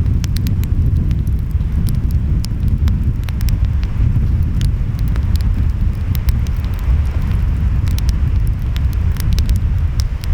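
Wood fire crackling, with frequent sharp pops scattered throughout, over a steady low rumble of wind and surf.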